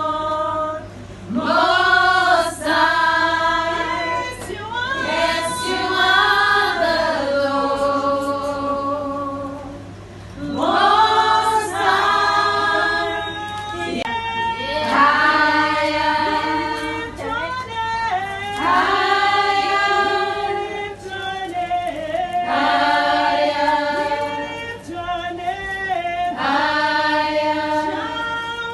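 A group of voices singing a song together, in long held phrases.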